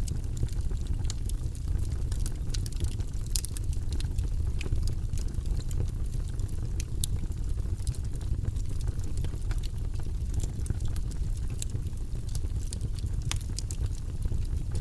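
Wood logs burning in a fireplace: a steady low roar of the flames with frequent sharp crackles and pops at irregular moments.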